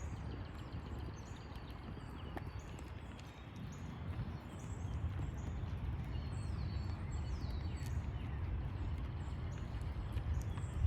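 Songbirds chirping again and again in short falling notes, over a steady low rumble.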